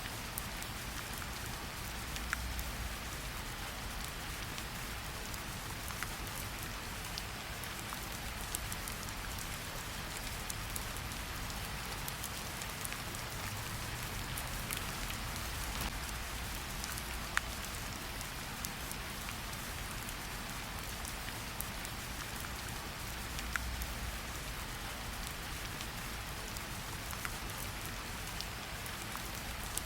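Steady rain falling, with scattered individual drops ticking sharply on a hard surface such as a window.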